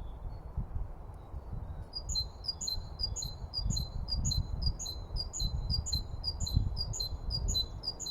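A songbird singing a fast two-note phrase, a higher note then a lower one, repeated about three times a second, starting about two seconds in, over a steady low rumble.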